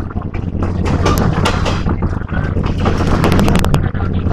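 Inside a moving Philippine National Railways commuter coach hauled by a diesel locomotive: a steady low rumble of wheels on track with wind noise. A quick rattle of sharp clicks comes about three and a half seconds in.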